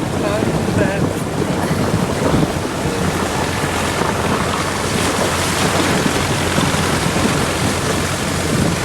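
Water rushing and splashing against a car as it is towed through a river, heard as a steady wash of noise, with a low steady engine hum underneath.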